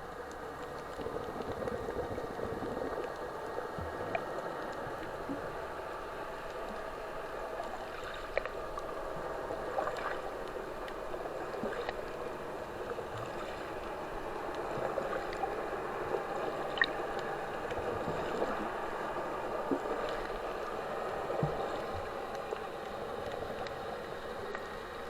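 Water gurgling and sloshing with a steady hum under it and a few faint clicks.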